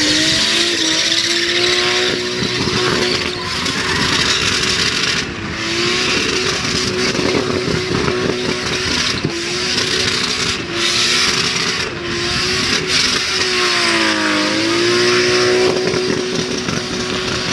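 Nissan Skyline R31's RB20 straight-six held at high revs through a burnout, over the steady hiss and squeal of spinning rear tyres. The revs sag and recover a few times, most deeply about fourteen seconds in.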